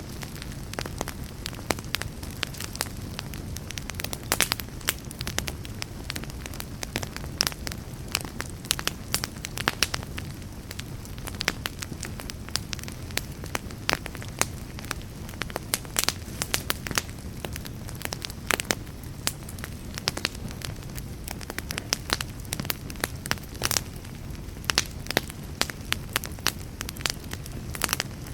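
Wood fire burning with dense, irregular crackles and pops over a steady low rumble of flame.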